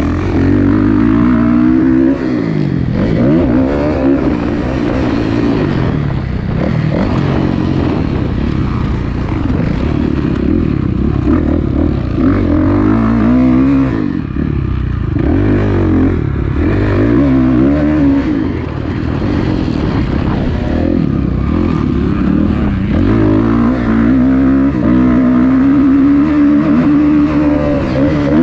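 Kawasaki KX450F four-stroke single-cylinder motocross bike engine revving up and down repeatedly, its pitch rising and falling with throttle and gear changes while the bike is ridden around a track.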